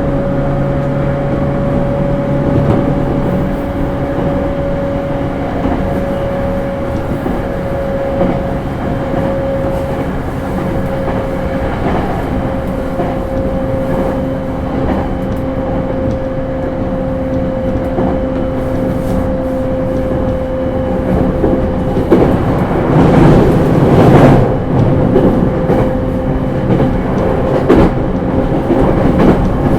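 JR East E231-series electric commuter train running, heard from inside the car: steady rumble under a whine that sinks slowly in pitch. Past the two-thirds mark it grows louder for a few seconds with rattling wheel-on-rail clatter.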